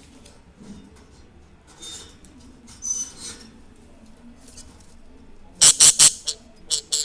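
Pet budgerigars giving short, sharp chirping calls: a few faint ones early, then three loud chirps in quick succession near the end.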